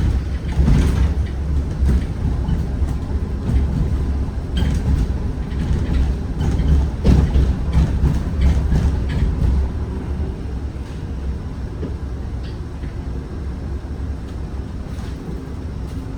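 Zhongtong N12 bus on the move, heard from inside: a steady low rumble of running and road noise, with scattered knocks and rattles from the body that settle down after about ten seconds.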